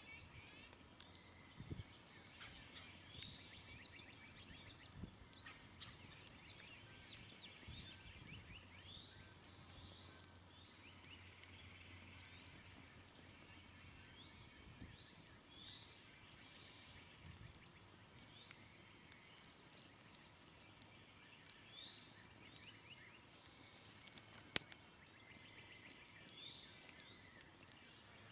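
Faint crackling of a smoldering wood campfire, with scattered small pops and one sharper pop late on. Behind it, short chirping calls repeat in clusters.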